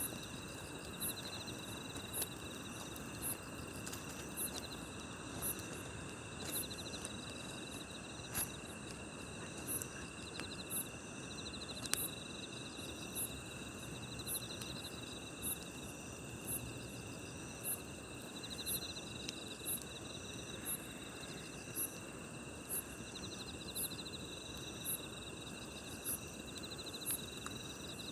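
Crickets and other grass insects calling at night in several overlapping layers: one high chirp repeats about once a second over steady trills. A campfire crackles beneath them with a few sharp pops.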